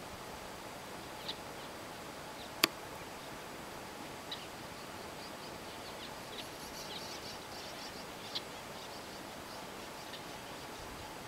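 Short, scattered bird chirps over a steady outdoor background hiss, busiest around the middle, with one sharp click about two and a half seconds in.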